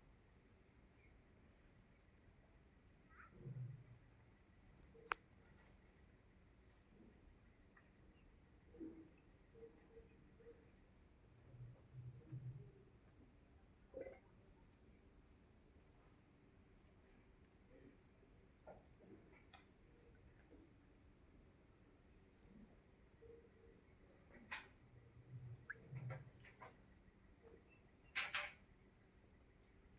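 Steady, high-pitched chorus of night insects trilling without a break. A few short, faint low calls and sharp clicks come and go over it.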